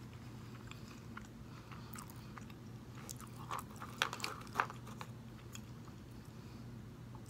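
A person chewing a mouthful of turkey bacon close to the microphone, with soft wet chewing and a few louder crunches about four seconds in.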